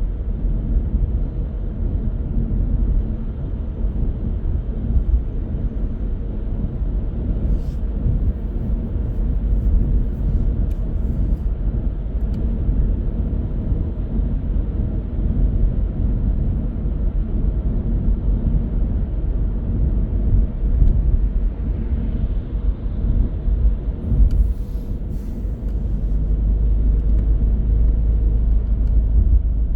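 Car driving along a road: a steady low rumble of tyres and engine, with a couple of faint ticks about eight seconds in and again near the end.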